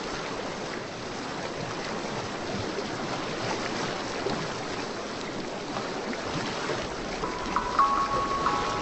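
Steady rushing water ambience, like ocean surf. Near the end, a few short, bell-like tuned notes come in as music starts.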